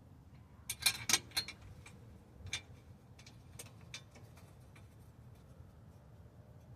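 A quick run of four or five sharp clicks and knocks about a second in, then a few fainter single clicks: parts and tools being handled during a wheel hub and steering knuckle job.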